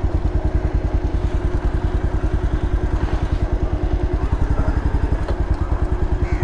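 Motorcycle engine running steadily at low revs with a rapid, even beat.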